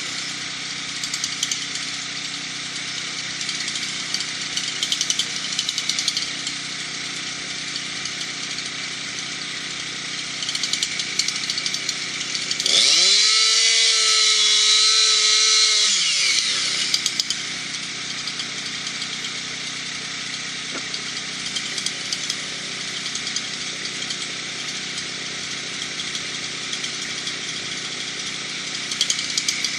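Chainsaw idling steadily, revved up hard for about four seconds near the middle, then dropping back to idle; it starts to rev again at the very end.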